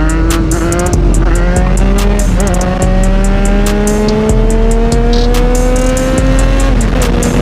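Three-cylinder sport bike engine pulling hard under acceleration. After a dip about two and a half seconds in, its revs climb in one long steady rise, then drop with an upshift near the end. Heavy wind rumble on the microphone runs underneath.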